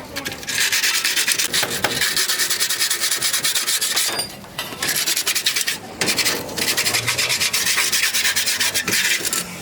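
Rapid back-and-forth abrasive rubbing on a rusty car door panel, a fast scratchy rasp worked by hand. It comes in three runs, with short pauses about four and six seconds in.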